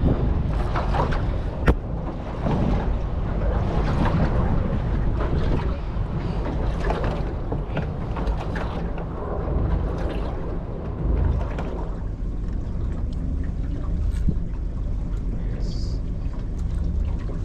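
Wind buffeting the microphone and steady noise of a small fishing boat on choppy water, with a sharp knock about two seconds in.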